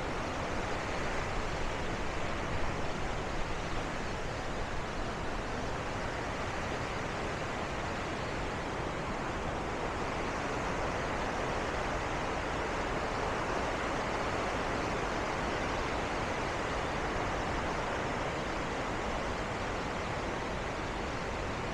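Steady rush of falling water from Bow Falls on the Bow River, an even roar with no breaks.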